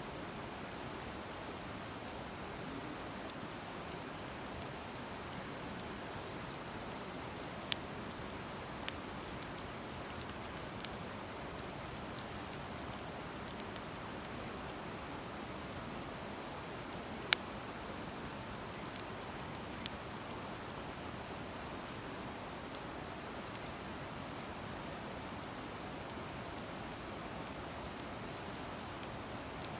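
Wood campfire burning in a fire stand, crackling with scattered sharp pops over a steady hiss; two pops, about eight and seventeen seconds in, stand out loudest.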